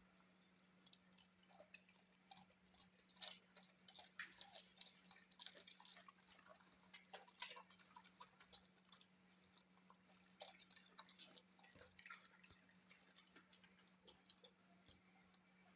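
A dog chewing and eating wet food: rapid, irregular wet clicks and smacks of its mouth and teeth, thickest in the middle and thinning near the end.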